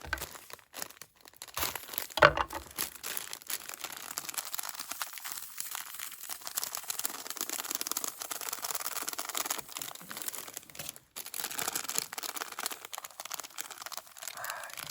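Steady crinkling and rustling from hands handling and mixing ingredients during food preparation, with a single louder knock about two seconds in.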